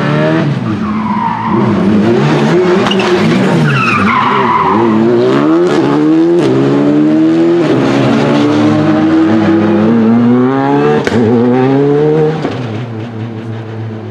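Rally car engine revving hard through repeated gear changes while its tyres squeal and skid through a corner, with a few sharp cracks from the exhaust; the sound fades after about twelve seconds as the car moves away.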